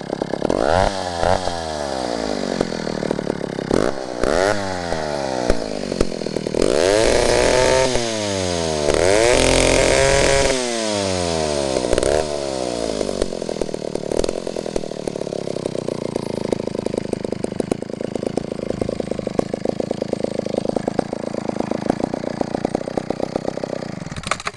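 Vintage McCulloch 1-50 two-stroke chainsaw engine revved up and down several times, twice held at high revs for a second or so. It then drops back to a steady idle and cuts off near the end.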